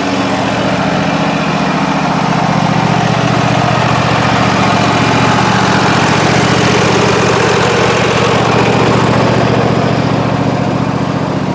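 Zero-turn riding mower running steadily as it cuts grass, its engine hum joined by a wash of blade and cutting noise that builds a couple of seconds in. This is a test cut after fitting a new belt.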